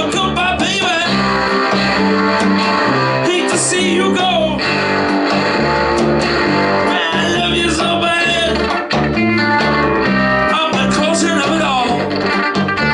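Live rockabilly band playing: a bending electric guitar lead over a bass line that moves note by note, with drums.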